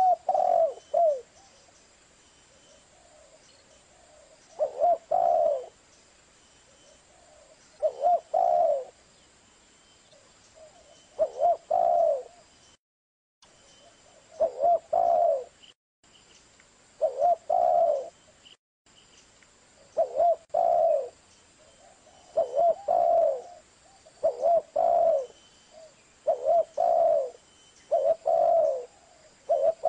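Zebra dove (perkutut) cooing: short phrases of a few quick notes, repeated about every three seconds at first and closer together in the second half. The song is broken by three brief cuts to silence near the middle.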